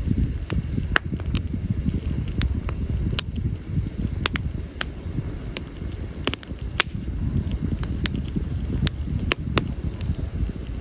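Burning firewood crackling, with irregular sharp pops and snaps, a few a second, over a steady low rumble.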